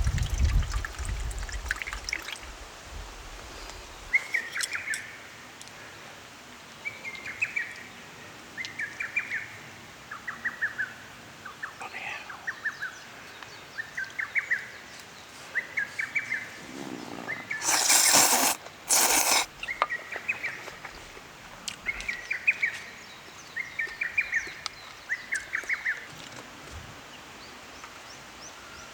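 A songbird singing the same short trilled phrase over and over, about every second and a half. About two-thirds of the way through, two brief loud noisy rushes cut across it, one right after the other, and a low rumble sits under the first few seconds.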